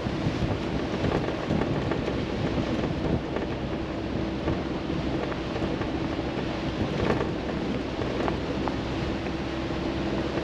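Chevrolet Colorado ZR2 Bison pickup driving slowly on a muddy dirt road: a steady rumble of engine and tyres with a constant low hum, and a few faint ticks.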